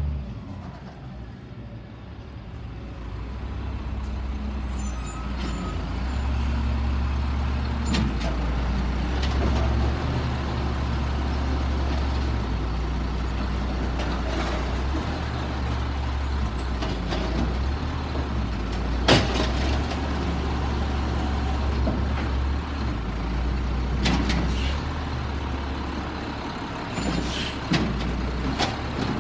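Peterbilt 320 garbage truck's engine running, its pitch stepping up and down several times, with sharp knocks and clanks; the loudest comes about nineteen seconds in.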